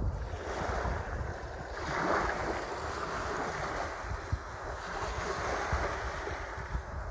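Sea waves washing in, one swelling and breaking about two seconds in, with wind gusting on the microphone.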